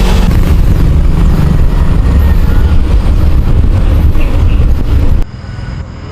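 Heavy wind rumble buffeting the camera microphone while riding a bicycle. It drops away abruptly to a quieter stretch about five seconds in.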